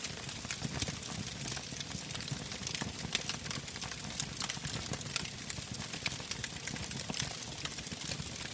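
Wood fire burning, with frequent irregular crackles and pops over a low rush of flame.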